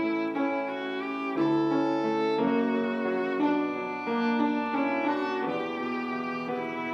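Violin playing a slow hymn melody in held notes that change about once a second, over a quieter piano accompaniment.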